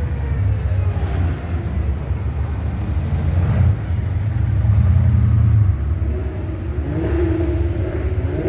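Car engines rumbling as cars drive past on the street, with one engine climbing in pitch as it accelerates about seven seconds in.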